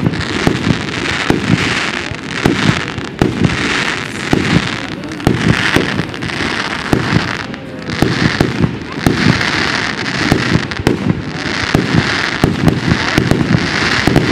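Aerial fireworks going off in quick succession: a rapid run of sharp bangs, several a second, over a recurring hiss.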